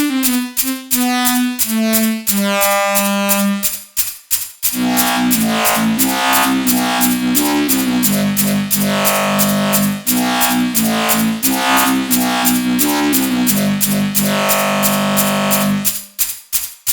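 Eurorack modular synthesizer, built around a Make Noise Spectraphon, playing a melody of bell-like tuned notes over a fast, steady ticking pulse. About four and a half seconds in it opens into a denser, noisier texture with sustained low notes that shift in steps, then drops away near the end.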